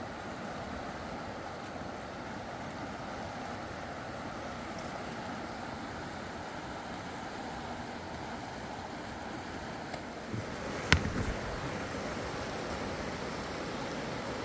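Steady rush of flowing river water, with one sharp knock and a few lighter knocks about eleven seconds in.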